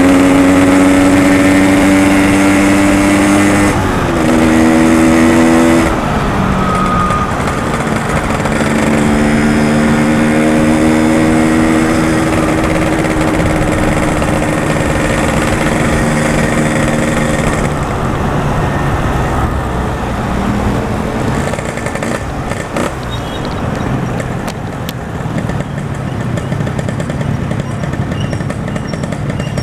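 Yamaha RX-King's 135 cc two-stroke single-cylinder engine running while the bike is ridden. The engine note steps down about four seconds in and again near six seconds, climbs again, then drops to a lower, rougher sound after about eighteen seconds as the rider eases off.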